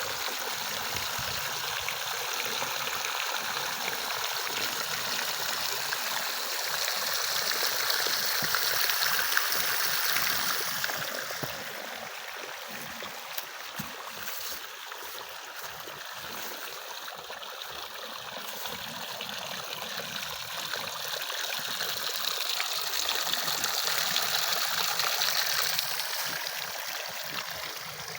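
Water running steadily along a wooden channel (flume), a continuous rushing trickle that swells louder twice, about a third of the way in and again near the end.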